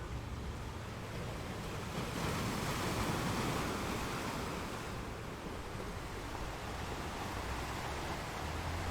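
Ocean surf: a steady wash of waves with a low rumble beneath, one wave swelling louder about two seconds in and easing off over the following few seconds.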